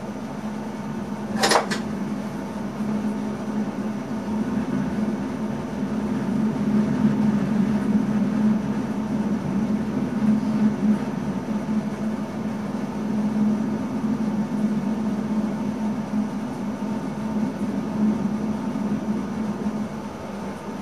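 Inside the cab of an NS ICM electric multiple unit: a steady hum and running noise of the moving train, with one sharp click about a second and a half in.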